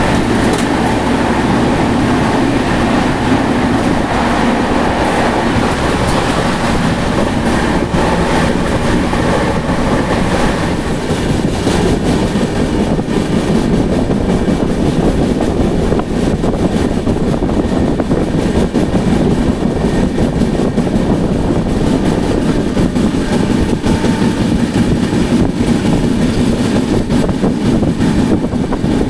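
An express train running at speed: the steady rumble and rattle of its coaches and wheels on the rails.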